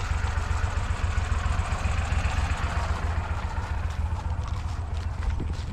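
ATV engine running steadily with a low rumble.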